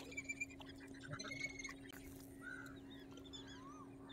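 Birds chirping with short whistles and rising and falling calls, over a steady low hum, with a few sharp clicks in the first second or so.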